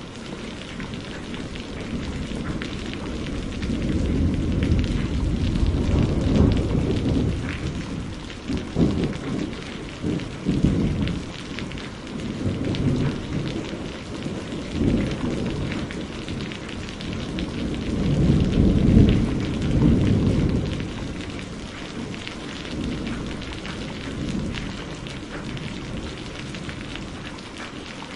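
Steady rain pattering with rolling thunder: several long, deep rumbles swell and fade over the rain, the loudest about two-thirds of the way through.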